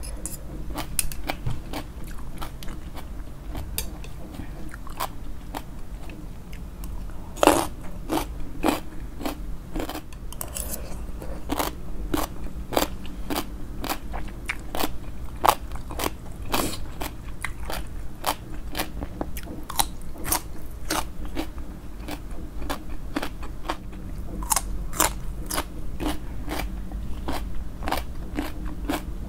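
Close-miked chewing and biting of crunchy shredded green papaya salad (som tum), with irregular sharp crunches and wet crackles, a few louder bites standing out.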